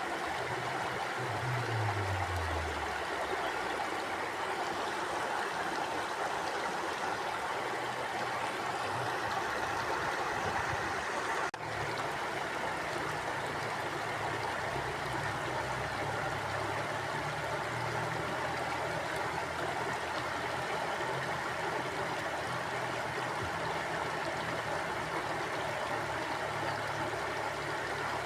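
A small river or stream flowing steadily, its water running and babbling with an even rush. The sound dips for a moment about eleven seconds in.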